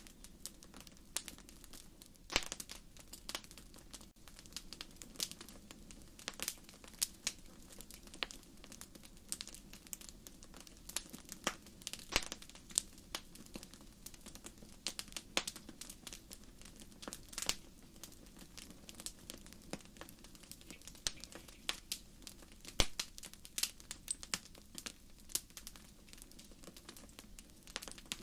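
Wood fire in a fireplace crackling: irregular sharp pops and snaps, a few much louder than the rest, over a soft steady low rush of burning.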